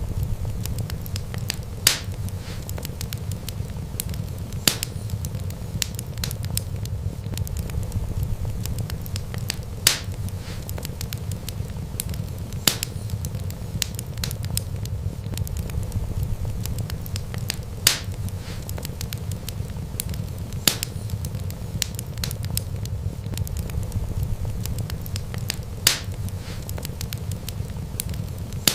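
Wood fire burning with a steady low rumble and constant small crackles, broken by sharp louder pops every few seconds.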